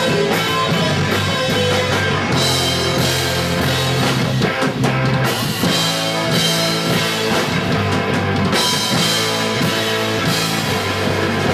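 Live punk rock band playing an instrumental passage: distorted guitars, bass and drum kit, without vocals.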